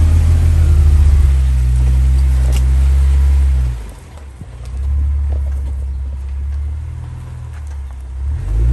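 Jeep engine rumbling low. It drops away sharply about four seconds in, then comes back and swells near the end.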